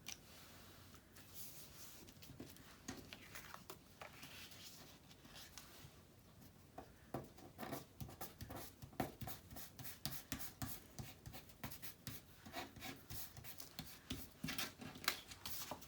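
Paper being handled and rubbed on a work surface: soft scraping and rustling, then a busier run of small clicks and taps from about halfway through as pieces are moved and pressed down.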